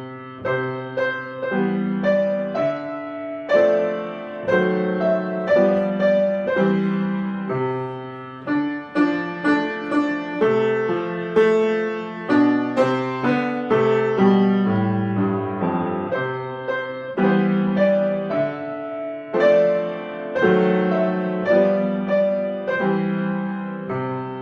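Piano played at a moderate tempo: a steady succession of struck chords and melody notes, each ringing on, with a chord held near the end.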